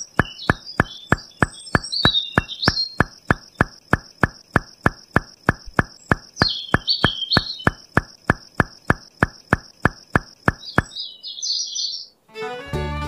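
Birds chirping over a steady high-pitched hum, with an even ticking at nearly four ticks a second; both stop and music comes in near the end.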